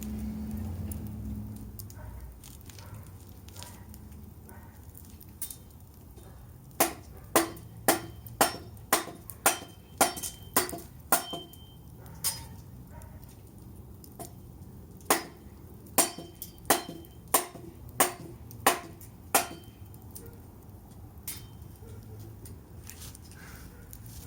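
Machete blade chopping into firewood, struck over and over in two runs of about nine blows each, roughly two a second, with a pause between the runs. The blade is dull, which keeps it from splitting the wood.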